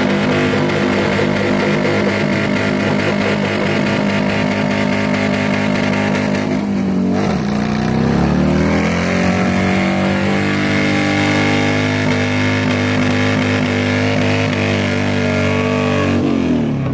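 Motorcycle engine held at high, steady revs, dropping and climbing back up about seven seconds in, then held again and let down near the end.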